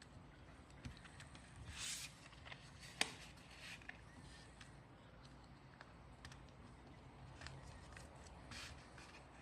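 A sheet of paper being handled and folded: faint rustling and creasing with light clicks, and one sharp click about three seconds in.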